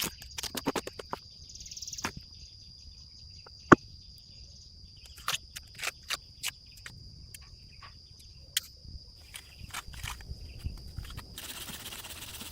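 Steady high insect trill, typical of a cricket, over scattered sharp clicks and knocks, one much louder crack a little under 4 seconds in. Near the end the trill stops and a rustling hiss takes over.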